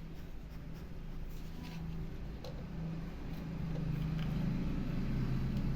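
A low, steady, engine-like mechanical hum that grows louder a little past halfway, with a few faint light clicks.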